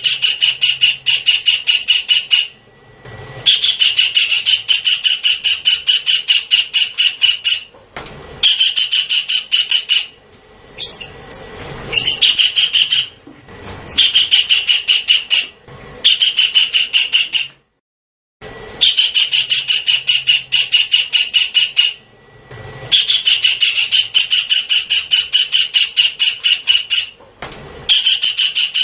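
Javan kingfisher calls: a loud, fast rattling series of sharp notes, about six a second, in runs of a few seconds with short pauses between. It is a bird-lure recording played as a repeating loop.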